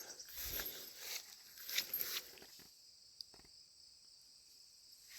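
Faint, steady, high-pitched insect chirring, with a few soft rustles in the first two seconds that then fade to near quiet.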